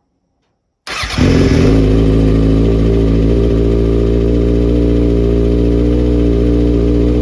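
2011 Kawasaki ZX6R's inline-four engine starting about a second in and settling into a steady idle, now running on a new battery, regulator and stator fitted to cure its charging fault.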